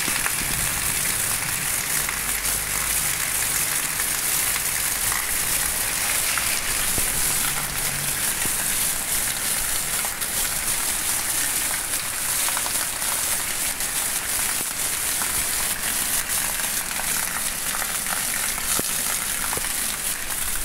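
Heavy rain pouring steadily onto a paved street and sidewalk, a dense, even hiss of rainfall.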